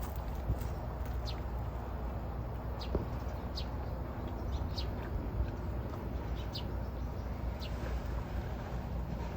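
A small bird calling repeatedly: short, high, falling chirps about once a second, over a steady low rumble.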